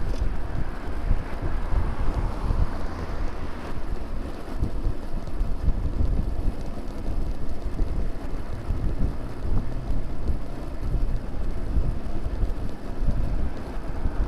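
Wind buffeting the microphone of a bicycle-mounted camera while riding, a steady rumbling rush that gusts unevenly.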